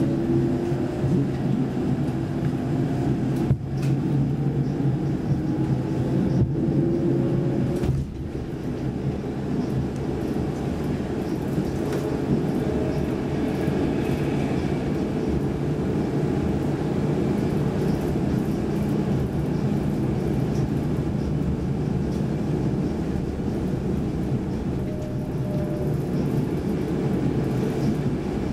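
Saltsjöbanan C10/C11 electric commuter train running, heard from inside the carriage: an electric motor whine rises in pitch over the first several seconds as the train picks up speed, with a few brief dips, then settles into a steady rumble of the train on the track.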